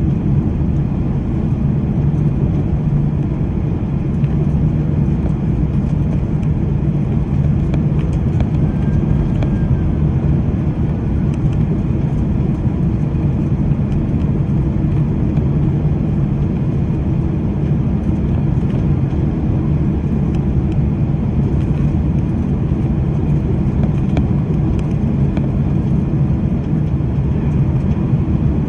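Boeing 767-300ER cabin noise during the landing approach: the engines and airflow make a steady, even noise with most of its weight low down.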